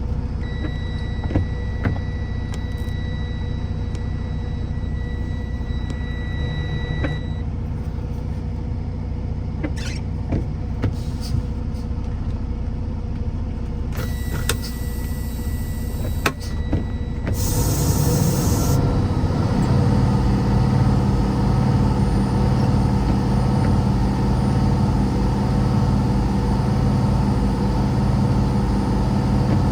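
A motor vehicle driving, heard as a steady low rumble, with a thin high tone for the first several seconds. About two-thirds of the way in come two short hisses, and the engine note then grows louder and holds steady.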